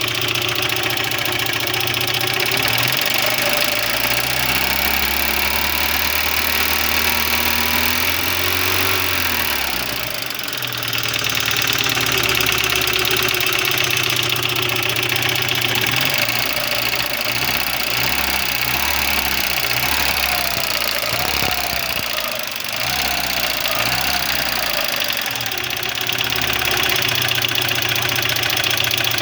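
Audi 80 B4's 1.6-litre four-cylinder petrol engine (ADA) idling and being revved: one longer rise and fall in the first third, then several quick blips in the middle, with a knock whose cause the owner doesn't know.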